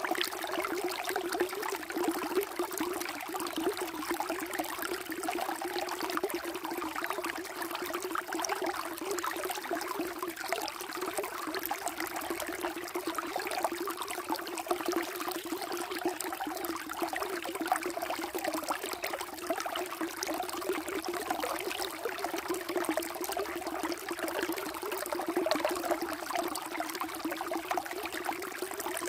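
Flowing water running steadily, with a constant trickling and splashing that does not change.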